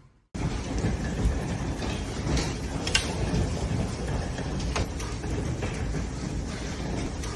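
Hailstorm: a dense, steady rush of hail and rain with scattered sharp cracks of individual hailstones striking, starting abruptly.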